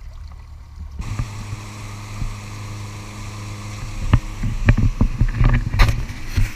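A motor running steadily with a low hum, which changes abruptly about a second in, then a string of sharp knocks and clatters over the last couple of seconds.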